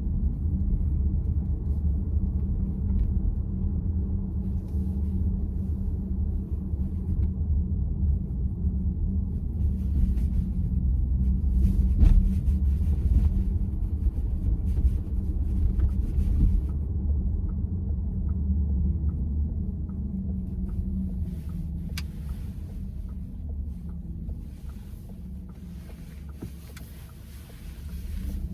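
Road and tyre rumble inside a VW ID.4's cabin, with a thump about twelve seconds in. About twenty-two seconds in the steering wheel gives a single sharp clack as it is turned slowly to the right: the recurring steering-wheel clack the owner is documenting as a fault. A row of faint, evenly spaced ticks runs through the later part.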